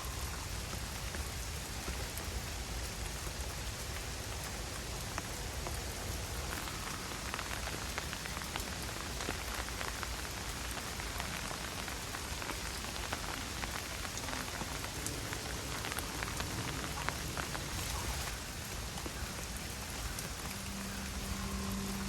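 Steady rain falling, many separate drops ticking through a continuous hiss.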